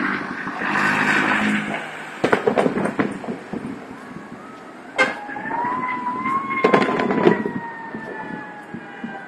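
Fireworks going off in loud, scattered bangs and pops. About halfway in, a siren starts a long wail that rises, then slowly falls.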